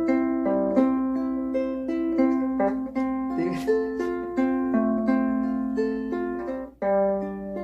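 Ukulele played with plucked notes and chords in a steady rhythm, as the instrumental introduction to a song; the playing stops for a moment near the end, then picks up again.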